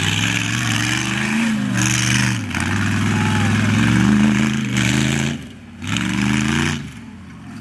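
Rock-crawling buggy's engine revving up and easing off several times, its pitch climbing and falling, with a brief lull about five and a half seconds in.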